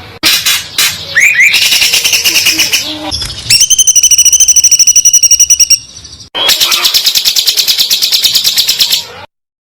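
Songbird song: very fast, high-pitched trills and repeated notes, in several edited segments. A short mixed phrase with upward sweeps gives way to a rapid even trill on one pitch, then another dense trill that cuts off suddenly near the end.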